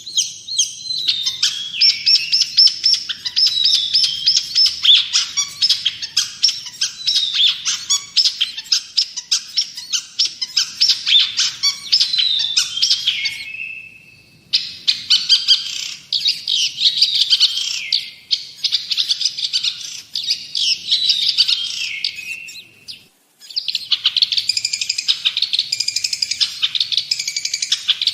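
Long-tailed shrike (cendet/pentet) singing a fast, continuous chattering song of rapid high notes mixed with gliding whistles, broken by two brief pauses about 14 and 23 seconds in.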